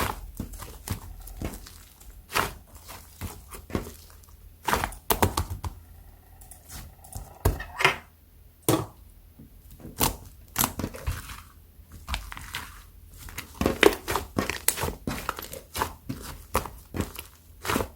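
Hands squishing, stretching and poking thick slime mixed with clay, giving irregular sticky clicks, pops and crackles, several a second.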